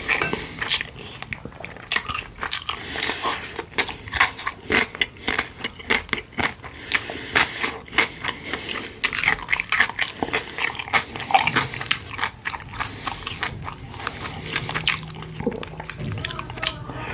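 Close-miked eating sounds: a person chewing and biting food, with many quick, irregular wet mouth clicks.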